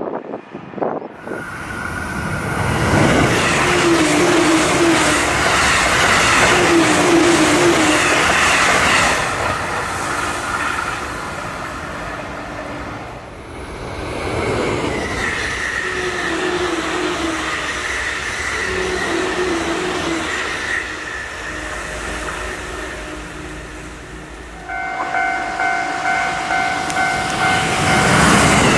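JR East E531 series electric trains passing at high speed, around 130 km/h, in several takes: a swelling rush of wheels on rail and air. Short repeated warning tones sound through much of it, and a steady horn sounds for about three seconds near the end.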